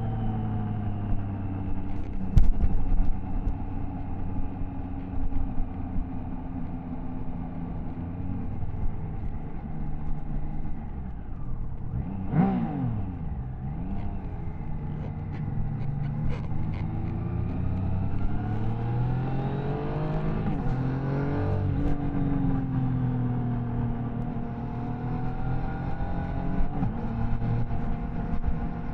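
Triumph Tiger Sport 660's inline three-cylinder engine running under way. Its revs dip and jump back up sharply a little under halfway through, then climb steadily and drop at a gear change about three quarters of the way in, easing down and rising again near the end.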